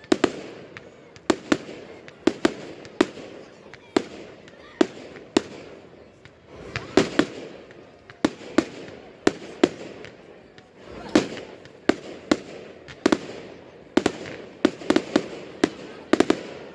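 Fireworks going off: a long run of sharp bangs at irregular intervals, some coming in quick clusters of two or three.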